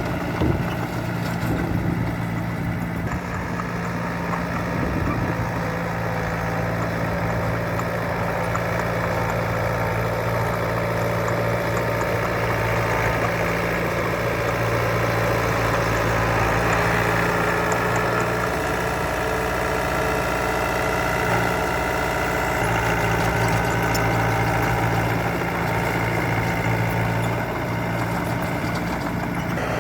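Heavy diesel engine of earthmoving machinery running steadily, with a short knock about half a second in.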